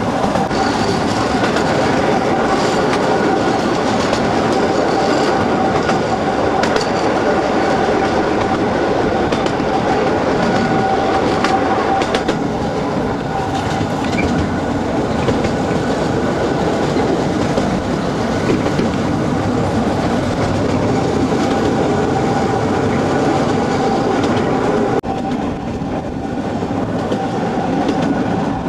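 50 cm gauge narrow-gauge train running along the line, heard from its open passenger car: a steady rumble of wheels on rail with a thin steady tone over it and occasional sharp clicks.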